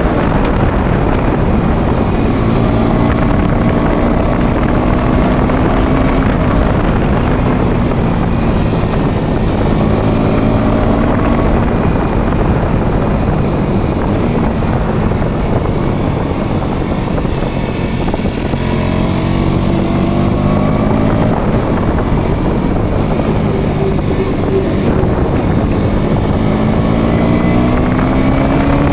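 Motorcycle engine running on the move, its pitch climbing repeatedly as it accelerates and then dropping back between gears, over a steady rumble of wind on the microphone.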